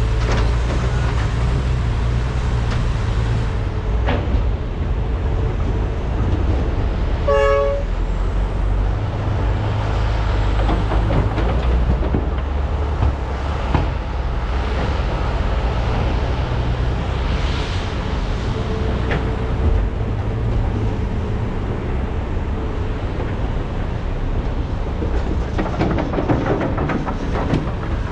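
Diesel engines of large hydraulic excavators running steadily under loading work, with occasional knocks. A short horn toot sounds about seven seconds in.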